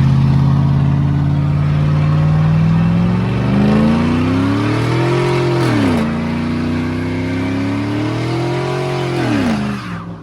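Truck engine running at a steady high speed, then revved up twice, the pitch climbing and dropping back each time; the sound cuts off abruptly near the end.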